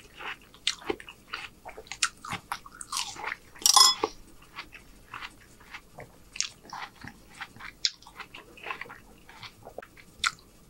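Close-miked chewing of watermelon chunks: scattered wet clicks and crunches of the mouth, with one louder crunch about four seconds in.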